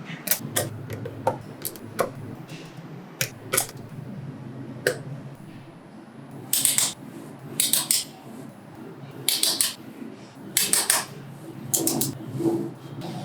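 Small magnetic balls snapping and clicking together as they are placed, in irregular sharp clicks. Some come singly and some in quick rattling clusters, the loudest about six to seven seconds in and again around nine to eleven seconds.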